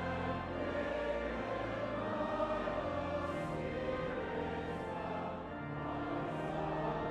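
Choir singing a slow hymn in long held notes, with steady low notes sounding underneath.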